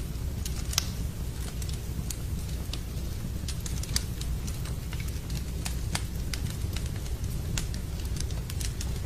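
Wood fire crackling in a fireplace: irregular sharp pops and snaps, a few a second, over a steady low rushing background with rain.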